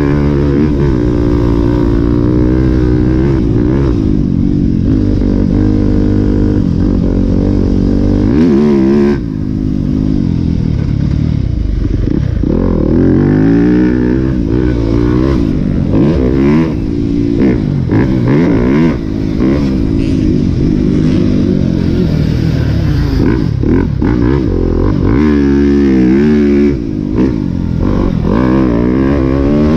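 Yamaha YZ250F single-cylinder four-stroke dirt bike engine ridden hard around a motocross track, its pitch climbing and falling again and again as the throttle is opened and shut through the gears. The throttle chops off briefly about nine seconds in and again near the end.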